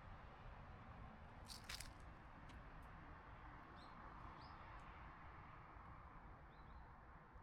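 Near silence: faint outdoor ambience, with a short crunchy rustle about a second and a half in and a few faint high chirps of a bird around the middle.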